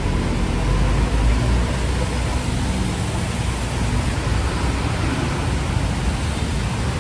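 Steady hiss of a city street in heavy rain, with the low rumble of passing traffic underneath.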